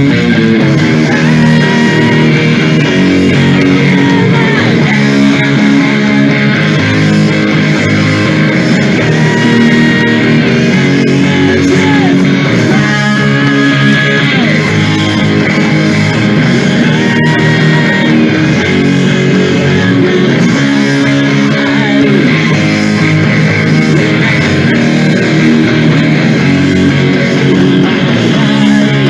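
Loud hard rock music led by distorted electric guitars, playing continuously.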